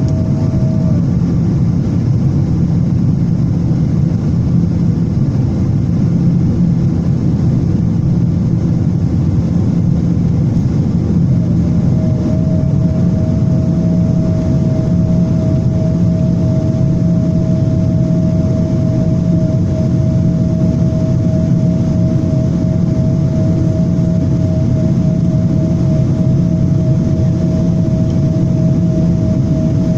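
Jet airliner engine noise heard inside the passenger cabin: a loud, steady low rumble with a thin steady whine that drops out about a second in and comes back about eleven seconds in.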